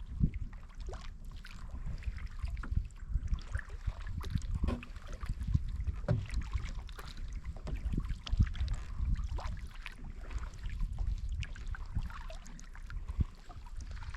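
Kayak paddling: irregular splashes, drips and light knocks of the paddle in the water and against the hull, over a steady low rumble of wind on the microphone.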